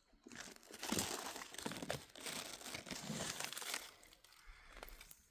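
Dry leaves and twigs rustling and crackling as they are handled, with many small snaps; loudest for the first four seconds, then fainter.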